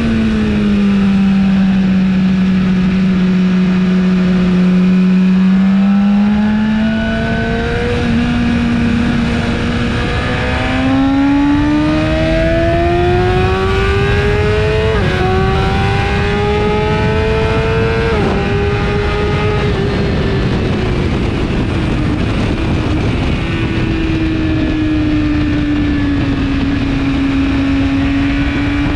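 2017 BMW S1000RR inline-four with an Akrapovic exhaust under wind rush. The engine holds a steady note, then climbs through the revs with two quick upshifts about halfway through, eases off as the revs fall, and pulls up again near the end.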